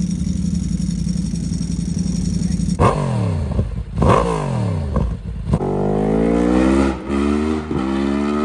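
Yamaha MT-10 crossplane inline-four through an Akrapovic exhaust: a steady engine note, two sharp revs about three and four seconds in, then hard acceleration with the pitch climbing through quick upshifts.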